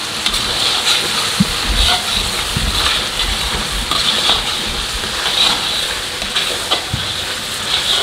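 Ground spice paste sizzling in a stainless steel wok as a metal spatula stirs it, with scattered clicks and scrapes of the spatula on the pan. The paste is frying at the cooked-through stage.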